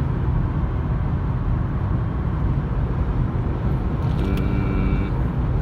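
Steady road and tyre noise with engine hum heard inside a car's cabin, cruising on a highway at about 65 mph.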